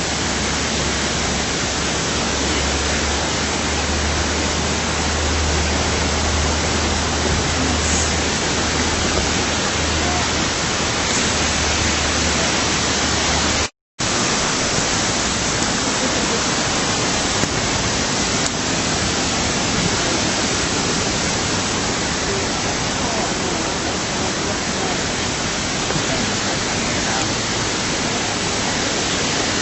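Steady rush of falling water from a waterfall, an even hiss across all pitches, with a low rumble beneath it in the first half. It cuts out completely for a split second about halfway through, then carries on.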